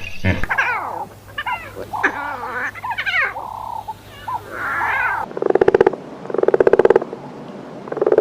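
Animal calls: a run of high, chirping calls that slide up and down in pitch, then from about five seconds in, loud croaking calls made of rapid pulses, repeated roughly once a second.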